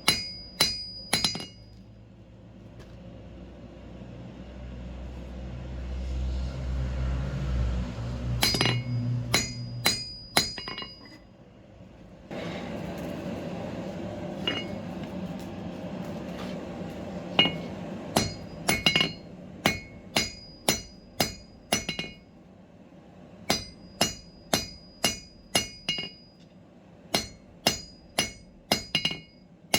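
Hand hammer striking steel on an anvil during forging, each blow ringing out: a few blows at the start, a burst around the middle, then a steady run of blows a little under two a second towards the end. Between the runs a steady rushing noise swells up and carries on under the blows.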